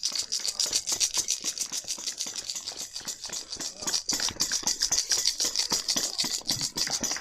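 A hand rattle of the maraca kind, the "Cuban rattle", shaken fast and steadily at about eight to ten shakes a second, with a bright, hissy rattle.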